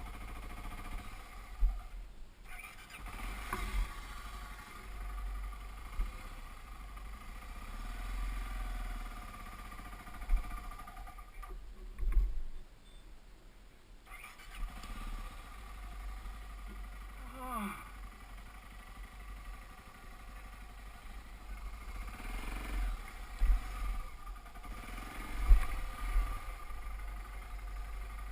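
Dirt bike engine running unevenly, its note dropping away for about two seconds near the middle and falling sharply once about two-thirds through, under a low wind rumble on the microphone and several sudden knocks.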